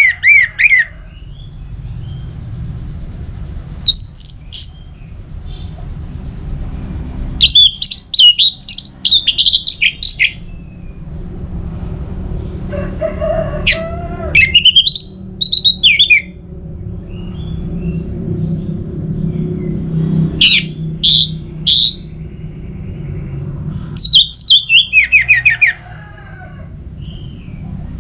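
Orange-headed thrush singing loud phrases of quick, varied whistles, about six bursts a few seconds apart, over a steady low rumble.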